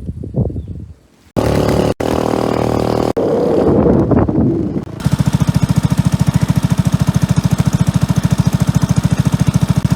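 Motorcycle engine running, heard in a few short choppy pieces with abrupt cuts, then settling into a steady, rapid, even chugging for the second half.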